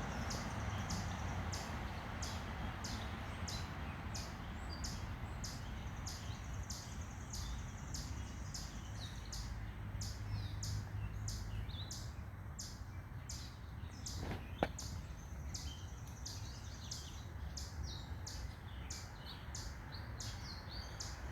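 Outdoor ambience: a steady series of short high chirps, about two a second, from a small animal calling repeatedly, over a low steady hum of city background noise. A single sharp click sounds once, about two-thirds of the way through.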